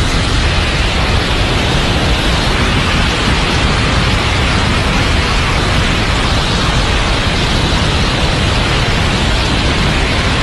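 Loud, steady roar of aircraft in flight, jet engine and rushing-air noise without a break or change in pitch.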